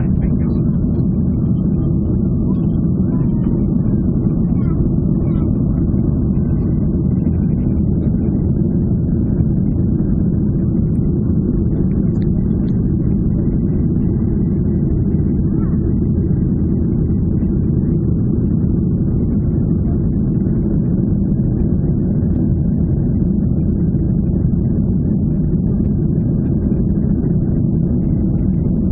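Steady low rumble of a jet airliner's engines and rushing air, heard from inside the cabin.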